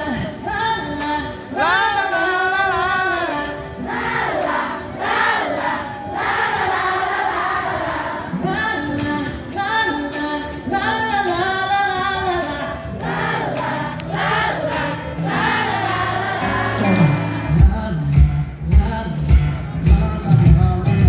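Live pop concert music over the PA: singing with many voices together over the band. Heavy drum beats come in about three-quarters of the way through.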